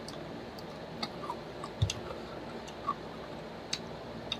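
A person chewing fried chicken close to the microphone: soft, irregular wet mouth clicks and smacks, about six in a few seconds, one with a low thump.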